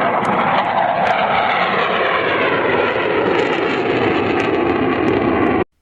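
Loud aircraft engine noise, a dense, steady sound with tones that slowly glide in pitch. It cuts off abruptly near the end.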